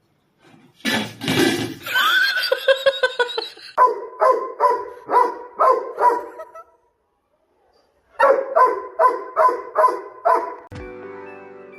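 A dog barking in two quick runs of short, evenly spaced barks, about two or three a second, after a short noisy burst and a drawn-out call.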